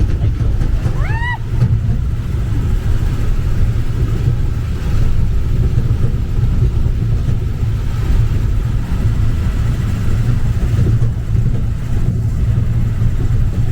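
Engine of a little tourist train running steadily under way, a low rumble with travel noise, heard from a seat close to the engine. A short rising high note sounds once, about a second in.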